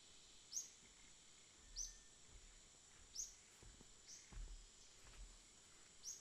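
Faint jungle ambience: a steady high insect drone, with a bird repeating a short, high, downward-slurred chirp about every second or so, five times.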